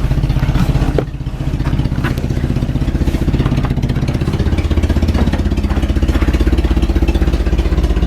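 1984 Opel Corsa A's carburetted 1.2-litre four-cylinder engine idling after a cold start with the choke off, its exhaust in need of fixing or replacement. A few short clicks and clunks over the idle, as the hood is opened.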